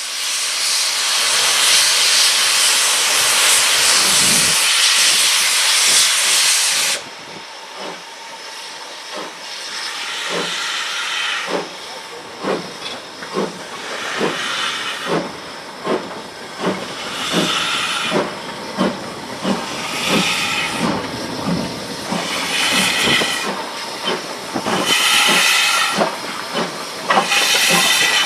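Steam locomotive: a loud hiss of steam for about seven seconds cuts off suddenly. Then comes a steady rhythm of beats, about one and a half a second, with a burst of hiss every couple of seconds.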